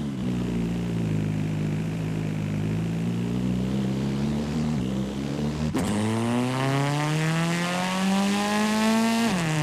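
An engine running: it holds a low, fairly steady pitch, then after a sharp click about six seconds in it revs up steadily in rising pitch and drops back suddenly near the end.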